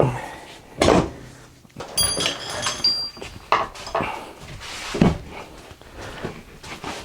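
A string of knocks, thuds and clinks as an old tyre is worked off a vintage scooter wheel rim by hand, with a brief bright metallic ring about two to three seconds in.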